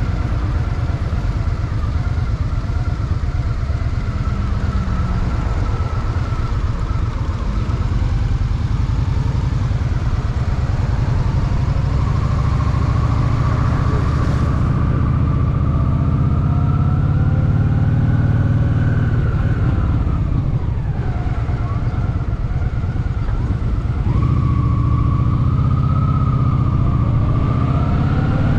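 Honda Shadow VT750 V-twin engine running in city traffic. Its revs climb for several seconds about halfway through, drop away, then climb again near the end.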